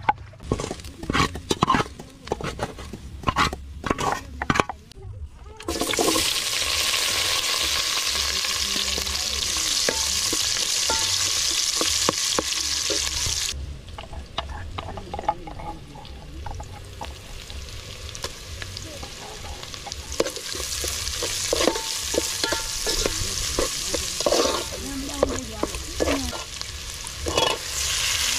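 Wooden pestle pounding in a wooden mortar: a run of sharp knocks for the first five seconds or so. Then a loud, steady sizzle of onions frying in oil in a metal pot starts suddenly, falls away for several seconds and builds again, with clicks and scrapes of a metal spoon stirring.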